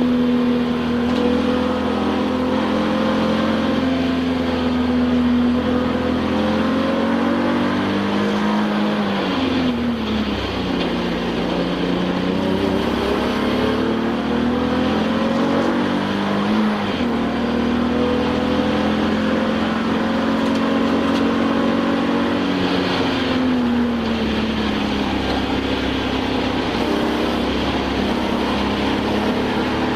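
Touring-class race car's engine heard from inside the cockpit at speed, over steady wind and road noise. Its pitch climbs slowly, then drops sharply three times, about a third in, just past halfway and about three quarters in, as the car brakes and shifts down.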